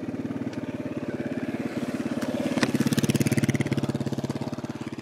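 Dirt bike engine running with a steady pulsing exhaust; it picks up and gets louder about two and a half seconds in, then eases off near the end.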